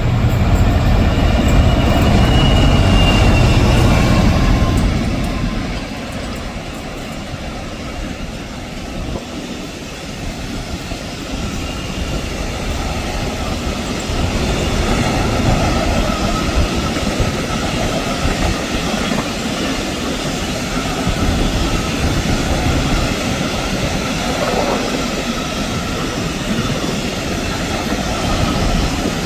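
Class 66 diesel locomotive passing, loudest in the first five seconds, followed by a long freight train of wagons rolling by with a steady rumble and rattle and some wheel squeal.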